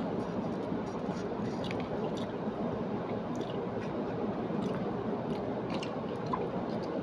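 Close-up chewing of food, with wet mouth sounds and scattered small clicks and crunches, over a steady background noise.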